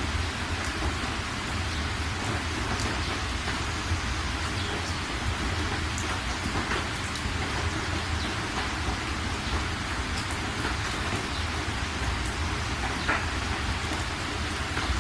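Heavy rain drumming steadily on a metal roof, with scattered sharp drip ticks and a steady low rumble underneath.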